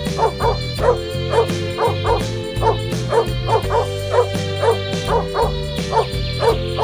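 Background music with a small dog yipping over it, short high yips repeating, often in pairs, about two or three a second.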